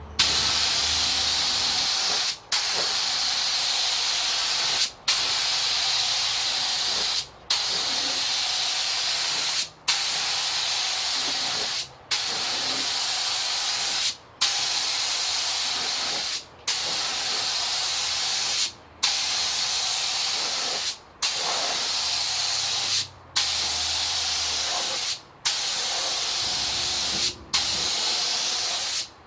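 HVLP spray gun (DeVilbiss StartingLine) spraying reduced white base coat, its air hissing in a run of about a dozen passes of roughly two seconds each. Each pass is split from the next by a short break where the trigger is let go.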